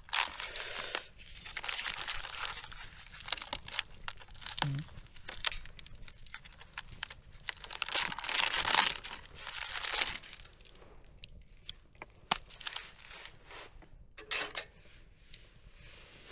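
Rustling and crinkling handling noise with scattered clicks, loudest in the middle and thinning out in the last few seconds.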